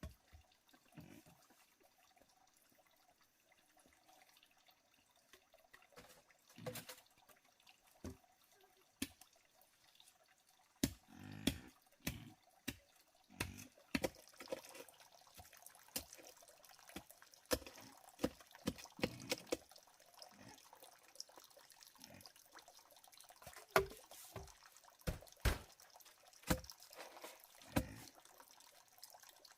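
Water dripping and splashing in irregular small clicks and knocks, sparse at first and busier after about six seconds, over a faint steady hiss.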